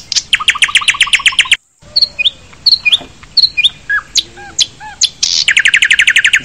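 Birds calling: two fast runs of repeated high chirps, about ten a second, with scattered short whistled calls between them. The sound cuts out for a moment between the two runs.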